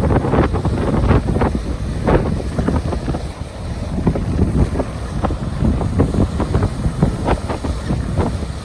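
Rain-swollen river water crashing into incoming sea waves, repeated splashes over a constant churning rush, with heavy wind buffeting on the microphone.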